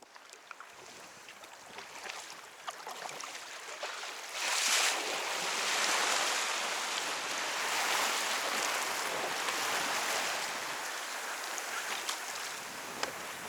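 Sea water rushing and splashing around a paddled kayak, with scattered small clicks. About four and a half seconds in a loud hiss of surf or wash rises suddenly, holds for several seconds, then slowly eases.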